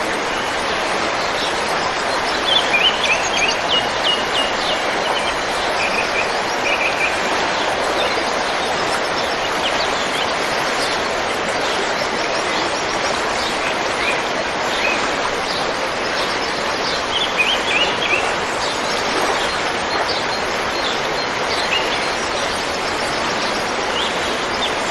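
Steady rushing of a river, with small birds chirping over it in short clusters of high notes, most clearly a few seconds in and again past the middle.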